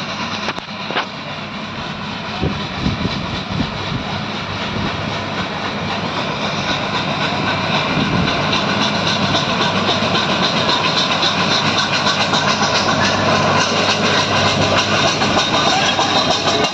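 Nilgiri Mountain Railway steam locomotive chugging as it approaches, growing steadily louder, with a few sharp knocks in the first few seconds.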